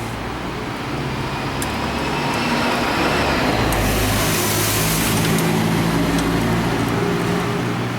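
Car engine running, its low hum rising slightly in pitch and level, with a loud hiss for about a second and a half midway through.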